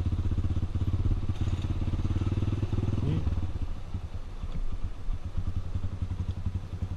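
Single-cylinder trail motorcycle engine running steadily at low revs; about three seconds in the note drops and turns to a weaker, uneven low putter.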